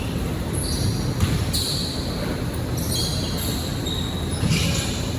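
Basketball game sounds in a gym: several short sneaker squeaks and the thud of the ball, over a steady hall din.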